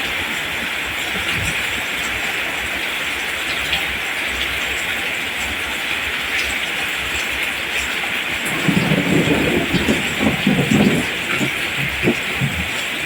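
Steady rain falling on a field of rice plants, a dense even hiss. About eight seconds in, a louder irregular low rumbling comes in for a few seconds, then eases.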